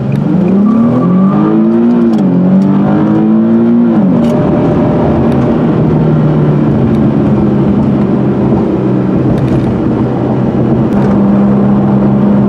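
Nissan 370Z's V6 engine heard from inside the cabin, accelerating: the pitch rises, drops at an upshift about two seconds in, rises again and drops at a second upshift about four seconds in, then settles into a steady cruise with constant road and wind noise.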